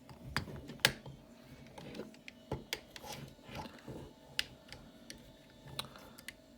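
Hard plastic parts of a Generation Toy Longhaul transforming-robot figure being handled and repositioned: scattered, irregular clicks and taps as the parts are moved and snapped into place.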